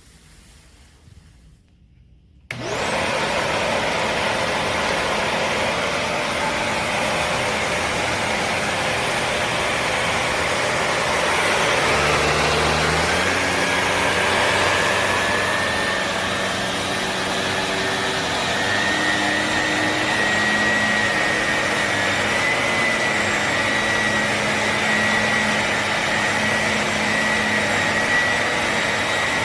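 A Shark upright vacuum cleaner is switched on about two and a half seconds in and then runs loudly and steadily, with a whine that creeps slightly higher in pitch as it goes.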